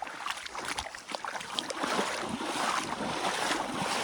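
Stream water splashing and rushing, with scattered sharp splashes, getting louder after about two seconds.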